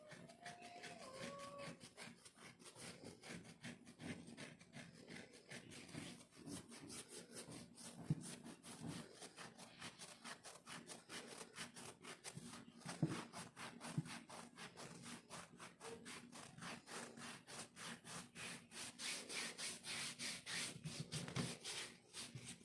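Rhythmic scratching of dry, flaky skin on a leg, about four or five scraping strokes a second, lifting off dandruff-like flakes.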